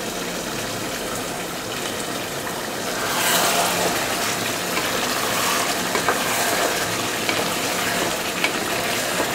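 Chicken pieces sizzling in thick masala in a pot, louder about three seconds in as a wooden spatula stirs them, with a few light scrapes against the pot.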